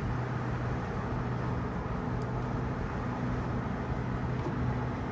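Steady low hum of an electric suburban train, two constant low tones over an even noise haze with no change in level.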